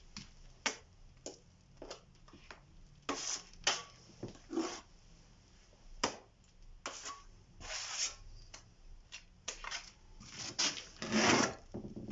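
A spatula scraping and working thick wet gypsum plaster on a wall in short, irregular strokes, with a longer, louder scrape near the end.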